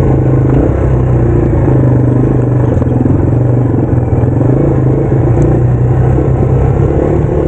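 Yamaha TW200's single-cylinder four-stroke engine running steadily under way as the bike is ridden along a rocky trail, its pitch wavering a little with the throttle.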